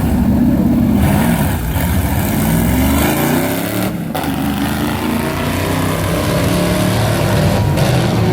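Car engine accelerating hard, its pitch rising and then briefly dropping away at about 4 s and again near the end, as at gear shifts during a drag-racing pass.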